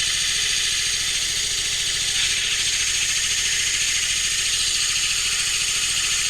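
Wood lathe running steadily with a low hum, under a steady hiss of 80-grit sandpaper, wrapped around a wooden block, rubbing the spinning poplar. The hiss grows a little brighter about two seconds in.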